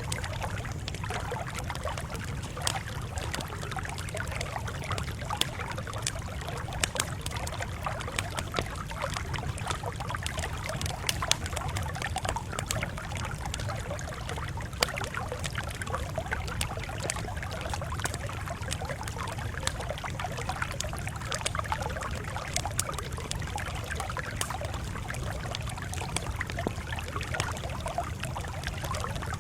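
Campfire crackling: many sharp pops and snaps scattered irregularly over a steady low rumble.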